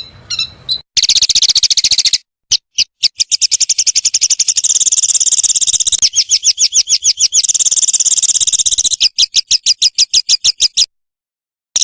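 A small songbird's rapid-fire 'tembakan' trill: sharp, high notes repeated more than ten times a second in long strings. The strings break off suddenly and start again, as in a spliced, looped master recording.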